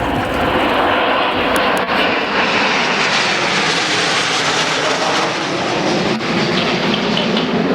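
Dassault/Dornier Alpha Jet jet trainers flying past, the noise of their turbofan engines swelling to its loudest around the middle and easing off a little toward the end.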